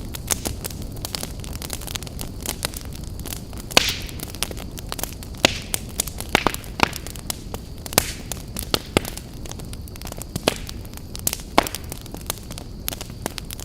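Wood campfire burning with a steady low rumble and frequent irregular sharp crackles and pops, a few louder snaps scattered through.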